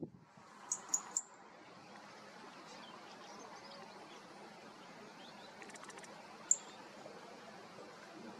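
Outdoor marsh ambience: a steady low background hiss with a few short, very high-pitched chirps from a small bird, three close together about a second in and one more a little past the middle.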